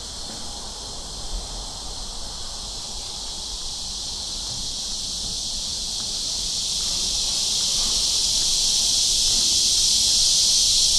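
Summer cicadas in a steady, high-pitched chorus that grows gradually louder.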